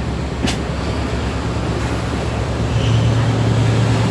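Sagano trolley train running on the rails: a steady low hum and rumble of the moving carriage, with a sharp click about half a second in, growing a little louder about three seconds in.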